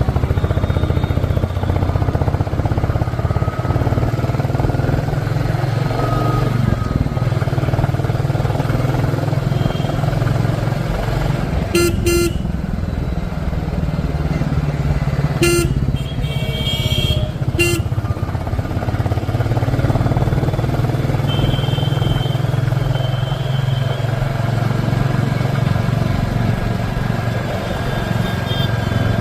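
Royal Enfield motorcycle engine running steadily while riding. Vehicle horns honk a few short times near the middle.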